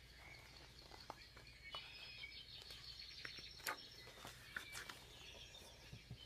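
Faint songbirds chirping and twittering in the background, with a few short soft clicks among them.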